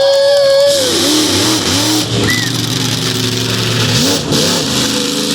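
Monster truck engine revving, its pitch rising and falling in repeated swells.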